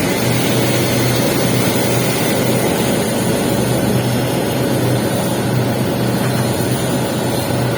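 Welding arc crackling and hissing steadily during a capping pass on pipe, over a steady low hum.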